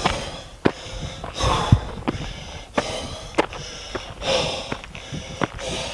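A hiker breathing hard, loud hissing breaths about every second and a half, with footsteps crunching on the trail about one and a half steps a second.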